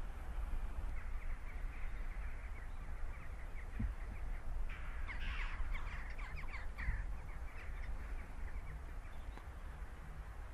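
Birds calling: a run of short, harsh, crow-like calls that is thickest around the middle, over a steady low rumble.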